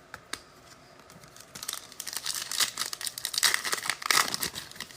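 A trading-card pack wrapper being torn open and crinkled: a couple of faint clicks, then a dense crackling that starts about a second and a half in and lasts about three seconds.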